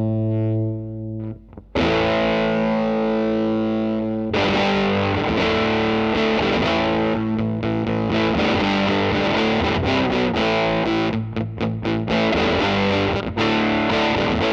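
Electric guitar, a Fender Stratocaster, played with distortion through a Line 6 Helix amp-and-cab model. A held chord dies away, a new chord rings out about two seconds in, and louder driven riffing follows with choppy, stopped notes near the end.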